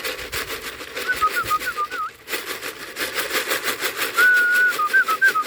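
A person whistling warbling phrases over a fast, steady rattle of about eight strokes a second. The whistle and rattle are a call to bring circling racing pigeons down to land at the loft.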